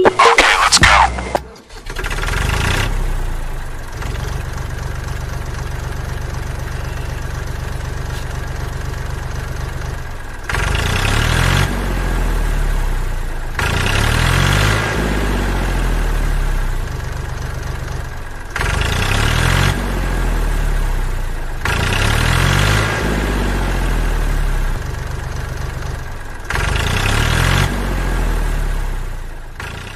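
Tractor engine starting, then running steadily at idle and revving up and down about five times in the second half.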